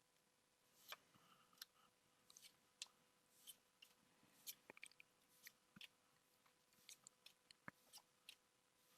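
Faint, scattered clicks and crisp little rustles of Pokémon trading cards being flipped through and booster-pack wrappers handled, over a faint steady tone.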